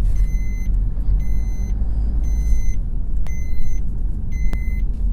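Vehicle reversing alarm beeping about once a second, each beep a clean high tone about half a second long, over a steady low rumble of traffic.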